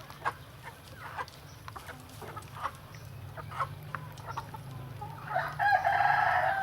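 A rooster crowing: one long call that starts about five seconds in, preceded by scattered short clucks.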